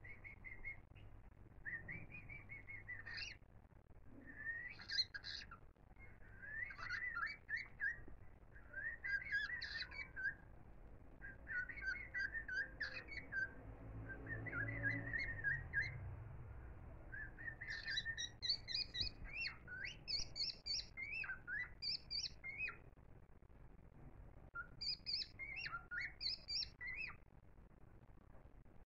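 Birdsong: short chirping and twittering phrases repeated in bursts, with brief pauses between groups.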